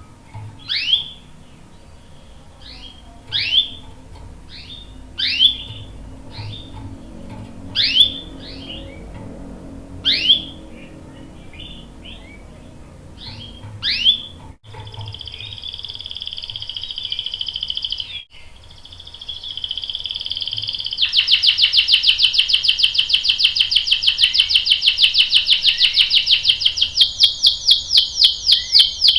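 Domestic canary singing: short down-slurred chirps every two to three seconds, then a held trill about halfway through that turns into a loud, rapid rolling trill for the last eight seconds.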